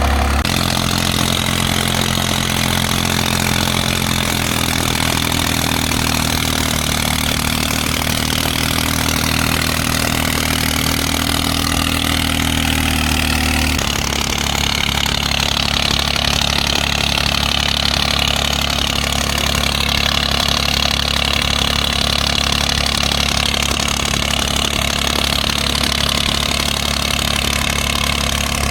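New Holland 3630 tractor's diesel engine running steadily at idle, its low note stepping abruptly to a different pitch about halfway through.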